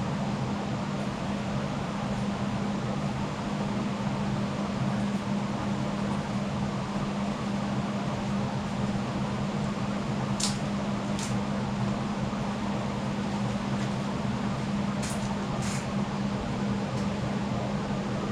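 Steady mechanical hum with a low drone held at one pitch, fan-like, with a few short clicks about two-thirds of the way through.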